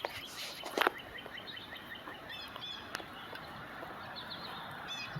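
Birds chirping in quick, repeated short calls, with a brief loud noise just under a second in and a sharp click near three seconds.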